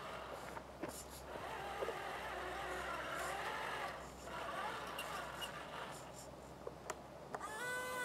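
The 85-turn electric motor of an RC King Hauler dump truck whines, rising and falling in pitch as the throttle changes, with a few sharp clicks. A steadier, higher whine starts near the end. The owner calls this motor gutless, short of power.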